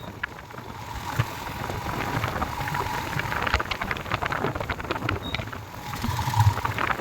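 Rain and wind noise crackling on the microphone of a moving motorcycle, with a low engine rumble underneath that swells near the end.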